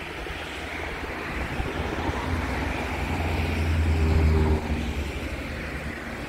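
Passing train rumbling along the line. A low engine hum swells over the rumble and drops away suddenly about four and a half seconds in.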